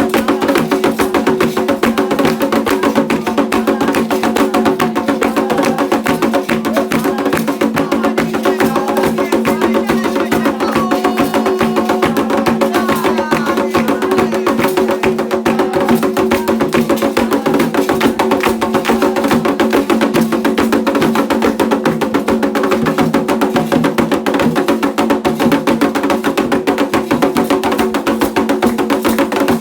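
Candomblé ritual drumming: hand drums and other percussion playing a fast, steady rhythm.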